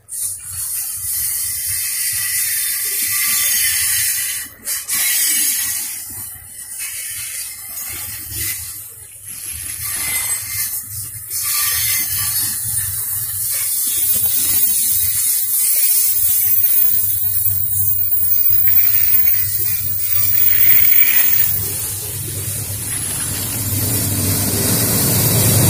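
Freight train of grain hopper cars rolling past close by, a loud, steady hissing noise of steel wheels running on the rails. Near the end a mid-train diesel-electric locomotive comes alongside and its low engine sound grows louder.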